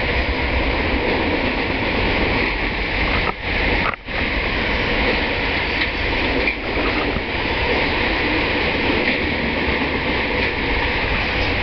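Freight train cars rolling past: steady noise of steel wheels on the rails, with two brief drops in level about three and four seconds in.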